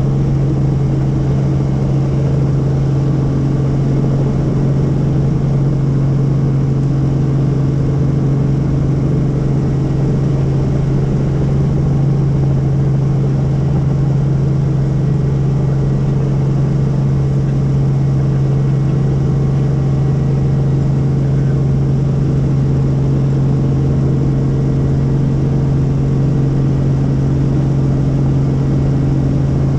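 Helicopter in flight: the rotor and engine make a loud, steady drone with a deep hum that does not change.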